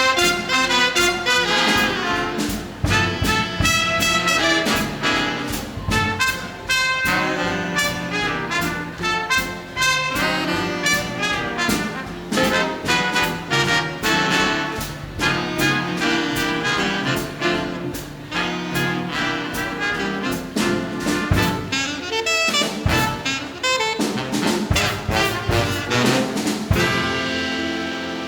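Big band swing jazz with a slide trombone solo over the brass and rhythm section, the band closing on a held final chord near the end.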